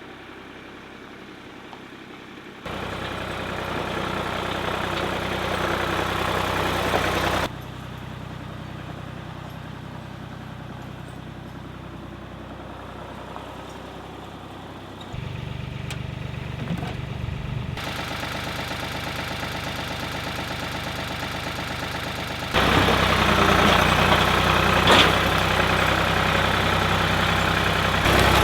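Woodmizer LT28 portable sawmill's engine running steadily, heard across several short clips joined with abrupt cuts, so the loudness and tone jump suddenly about five times.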